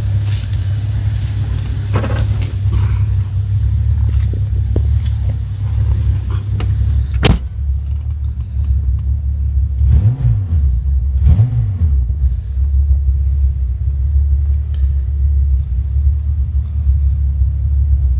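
Nissan Fairlady Z S30's swapped-in 2.8-litre straight-six idling steadily, on an engine still in its break-in. A sharp clack comes about seven seconds in, after which the sound turns duller. Two short throttle blips follow, each revving briefly up and back down to idle.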